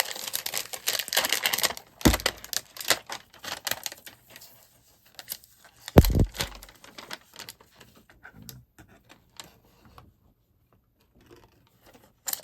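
Packaging of a toy miniature fridge being handled: a dense run of rapid clicking and crinkling, then scattered clicks with two heavier knocks, the second about six seconds in and the loudest, dying away near the end.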